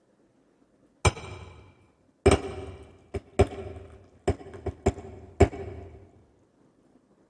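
About eight sharp clinks and knocks of hard cup or glassware being handled, each ringing briefly, spread irregularly over four or five seconds.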